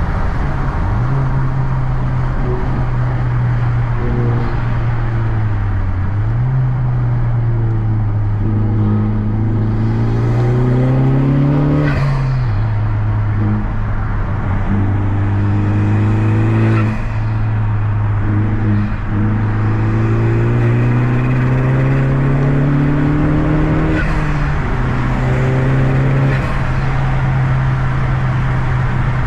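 Turbocharged four-cylinder engine of a stage 2 Honda Civic FK2 Type R with an Eventuri carbon-fibre intake, pulling under load. Its pitch climbs slowly and drops sharply three times, as at gear changes, with short turbo flutter at the shifts.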